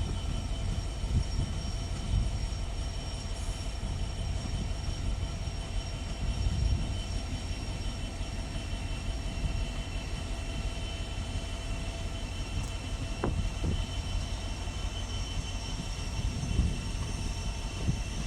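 Train running: a steady low rumble with a steady high-pitched whine over it, and a single sharp click about two thirds of the way through.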